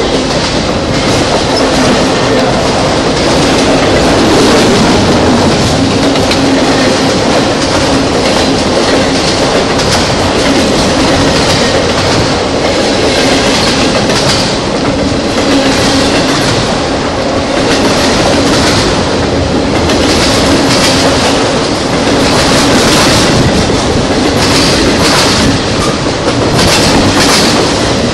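A freight train of autorack cars passing close by: a loud, steady rumble of steel wheels on rail, with a faint steady hum and clickety-clack of the wheels that grows clearer near the end.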